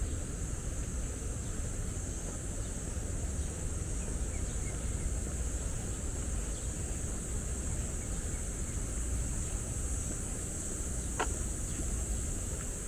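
Steady high-pitched insect trilling over a low, steady rumble of city traffic, with one short sharp click near the end.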